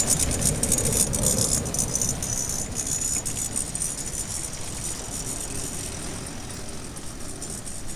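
Rapid rattling, loudest in the first few seconds and fading steadily away.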